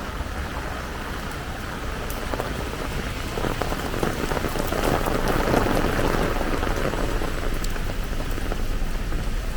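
Heavy rain falling in a steady dense patter. It grows louder from about three seconds in and stays louder.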